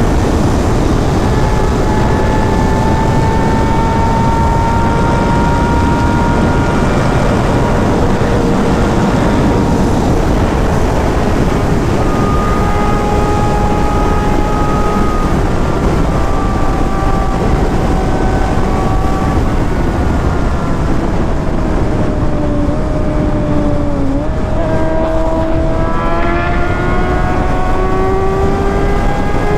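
Sportbike engine running at cruising speed under heavy wind noise, its pitch drifting slowly, dropping briefly about three-quarters of the way through and then climbing as the bike accelerates again.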